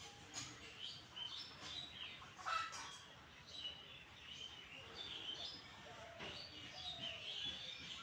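Birds chirping, with many short high calls following one another throughout. A brief louder scratchy sound comes about two and a half seconds in.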